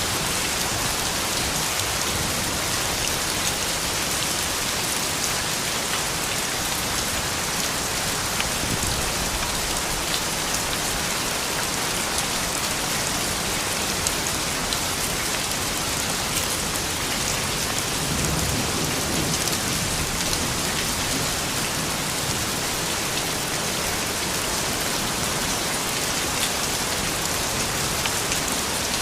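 Steady rain falling and pattering on surfaces, an even hiss with scattered drop ticks and a faint low rumble about two thirds of the way through.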